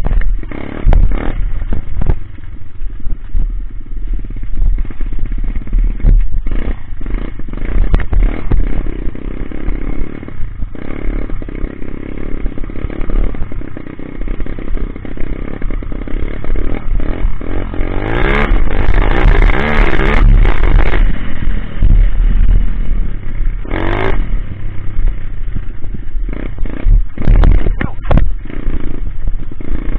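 Coolster Speedmax 125 pit bike's small four-stroke single-cylinder engine running under way, the revs rising and falling, with frequent knocks and rattles. It is revved hardest about eighteen to twenty-one seconds in.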